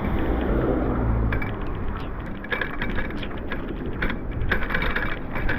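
Bicycle being ridden over a rough surface: wind and rolling noise with a low rumble for the first second or so, then frequent rattling clicks from the bike.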